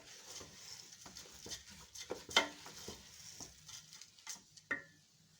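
Rice being stirred and sautéed with spices in a pot: a spoon scraping and clicking against the pot over a light sizzle. The stirring stops shortly before the end.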